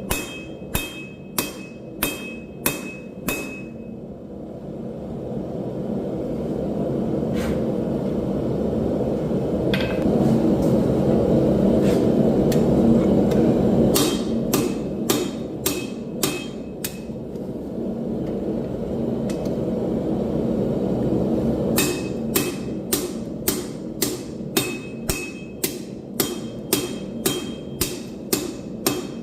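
Hand-hammer blows on hot steel at an anvil, about two a second, each with a bright metallic ring. In the middle the hammering thins to a few scattered strikes while a steady rushing noise swells and fades; the regular hammering resumes near the end.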